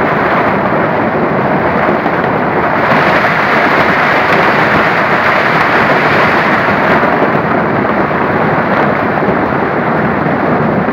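Heavy rain and hail pouring down in a windstorm, a steady loud roar with no break.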